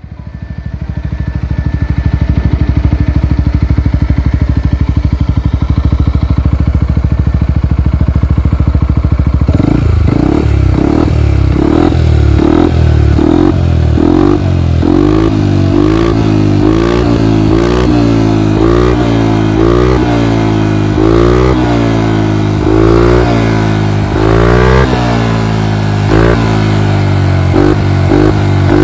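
Yamaha XMAX 250 scooter's single-cylinder engine running through an aftermarket Burnout racing exhaust. It idles steadily for about nine seconds, then is revved in quick throttle blips, one after another, each rising and falling in pitch.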